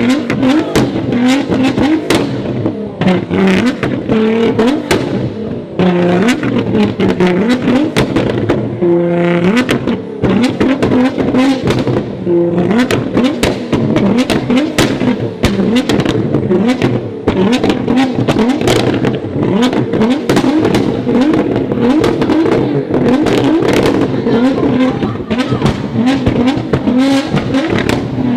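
High-performance car engine revved hard again and again, its pitch rising and falling, with a few briefly held revs and many sharp pops.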